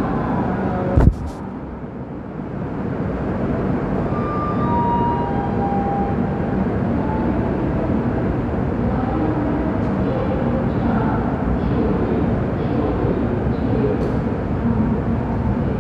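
Steady low rumble of a passenger train of LHB coaches at a station platform. A sharp thump comes about a second in, and three short falling tones sound between about four and six seconds in.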